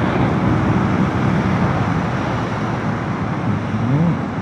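Motorcycle riding at road speed: engine running under steady wind rush. A brief rising sound comes near the end.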